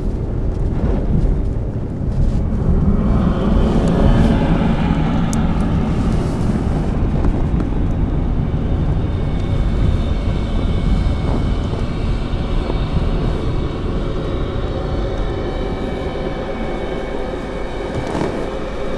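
U-2 Dragon Lady's jet engine whining steadily at low power as the plane rolls out after landing, heard from the car following close behind, over the car's own low engine and road rumble. The whine comes in about two to three seconds in and holds steady.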